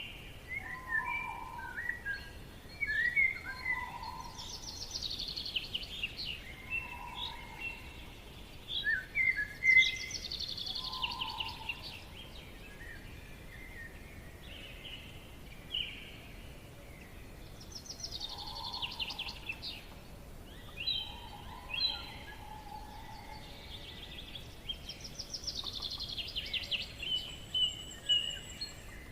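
Several birds singing and calling in a forest: quick high trilled phrases and chirps, with short lower hooting notes between them, coming in bursts over a faint steady hiss.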